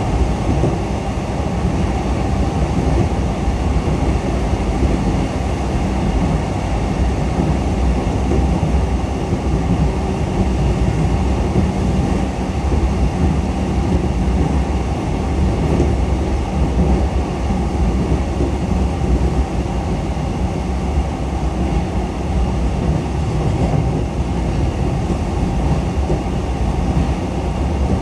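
Onboard running sound of a JR East E233 series 7000-subseries electric commuter train in motion: a steady rumble of wheels on the rails and running gear, holding at an even level with no marked changes.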